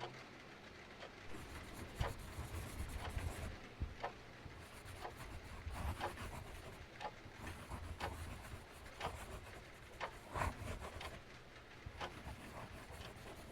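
Wood fire in a fireplace crackling and popping at irregular moments over a low rumble, with a soft steady hiss beneath.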